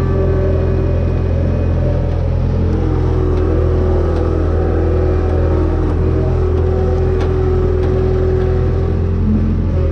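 Motor vehicle engine running steadily, a low even drone.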